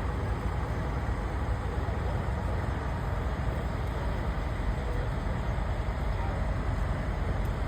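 Steady low rumble of a running vehicle engine, with no distinct events.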